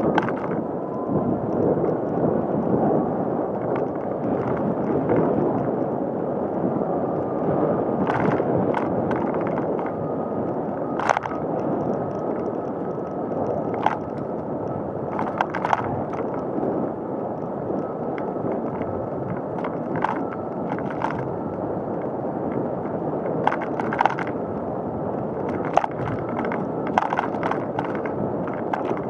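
Bicycle rolling steadily along a paved path: continuous tyre and road noise, with scattered sharp clicks and rattles from the bike.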